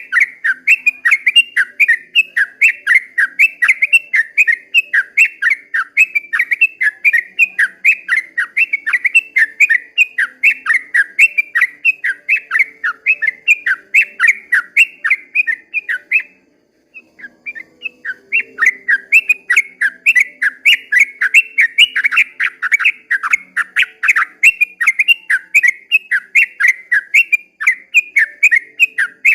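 Yellow-vented bulbul (trucukan) singing a long, fast 'ropel' run of short bubbly whistled notes, several a second, breaking off briefly a little past halfway and then starting again.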